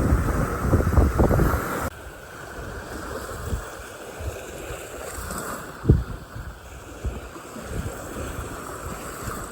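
Wind buffeting the microphone, loud and gusty for about two seconds, then dropping abruptly to a quieter windy hiss with scattered low thumps and one sharp bump about six seconds in.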